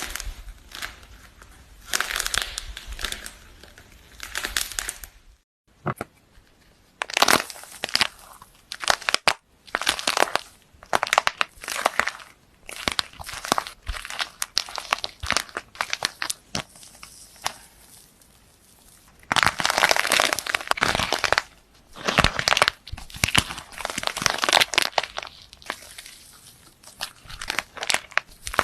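Repeated bursts of crisp crackling and crunching, like something being crushed or crumpled close to the microphone, each lasting a second or two with short pauses between, and abrupt cuts from one clip to the next.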